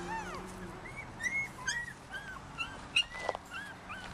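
Young Papillon puppies whining and yipping, a string of short high cries that rise and fall. A sharp click about three seconds in.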